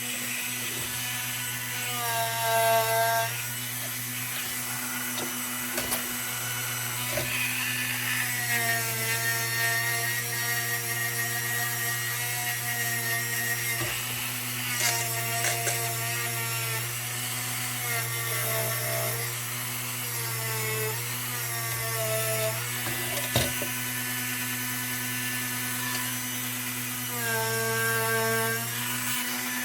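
Small electric power tool running steadily while paint is stripped from the lantern's metal, with a constant low hum and a higher tone that drops and recovers several times as the tool is pressed against the work.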